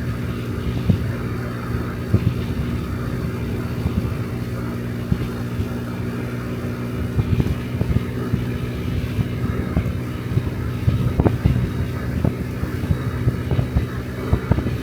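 Honda Dio Cesta AF68 50cc scooter's single-cylinder four-stroke engine running steadily under way, with wind gusting on the microphone.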